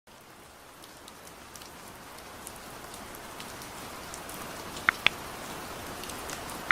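Steady soft rain with scattered drop ticks, fading in over the first few seconds. About five seconds in, two sharp pops in quick succession stand out above the rain.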